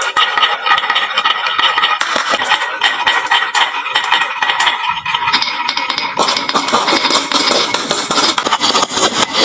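Many marbles rolling and clattering down a wooden marble run, a dense stream of quick clicks as they knock against the wood and each other. About halfway through, a deeper steady rolling rumble joins in.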